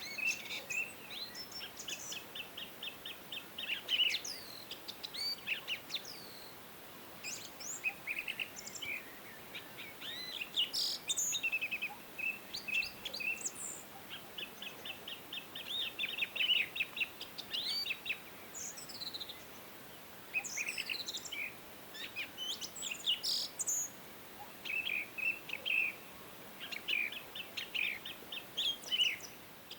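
Several songbirds singing and calling, phrase after phrase with short pauses: rapid high trills of repeated notes mixed with quick falling whistles, over a faint steady hiss.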